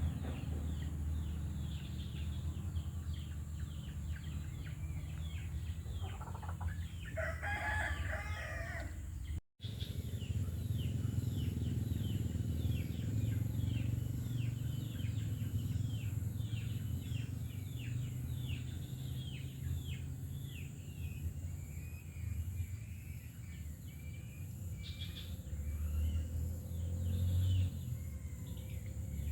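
Outdoor ambience of many short, quick bird chirps over a steady low rumble, with a longer crowing call about seven seconds in. The sound drops out briefly about nine and a half seconds in.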